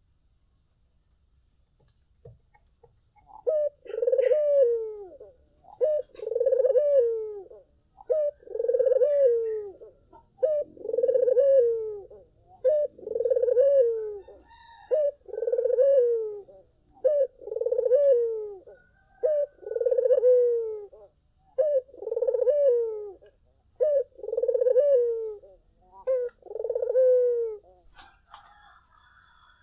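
Barbary dove (puter) cooing: eleven repeated coos, about one every two seconds, starting a few seconds in and stopping near the end.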